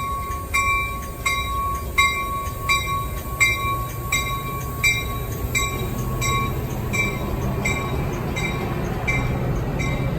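A railroad bell ringing at an even pace, about three strokes every two seconds, over the low, steady rumble of a passing train that grows stronger partway through.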